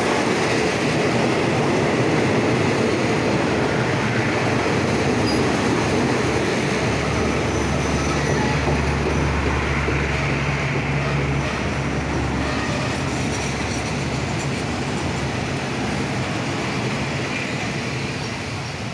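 Passenger coaches of a diesel-hauled express train rolling along a station platform: a steady rush of wheels on rail. A deep hum joins for a few seconds in the middle. The rolling noise eases off near the end as the train slows to stop at the platform.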